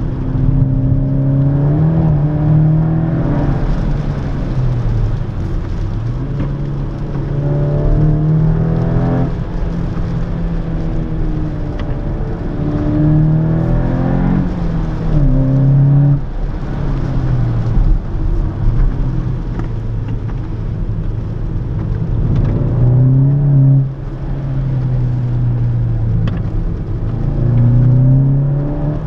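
Skoda Octavia RS's 2.0-litre turbocharged four-cylinder petrol engine accelerating through the gears: its note climbs with the revs and drops back at each upshift, several times over, with a steady road-noise bed beneath.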